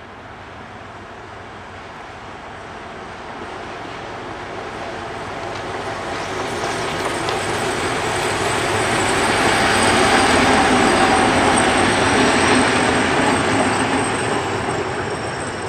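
Approaching freight train of tank wagons: the rumble of wheels on rail grows steadily louder, peaking about two-thirds of the way through, with a high, thin wheel squeal over it.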